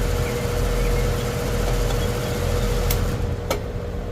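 Goodman condensing unit's outdoor fan motor running with a steady hum and airy hiss, the compressor not running. About three seconds in come two sharp clicks, and the hiss drops away while the hum carries on.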